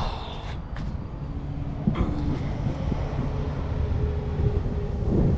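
Scania R500 truck heard from inside the cab while driving: a steady low rumble of engine and road with a faint engine hum. A few short clicks and a knock come through, the loudest about two seconds in.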